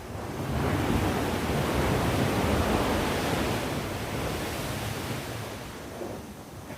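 Sea waves breaking on the shore: a wave surges in about half a second in, and its wash slowly fades over the next few seconds.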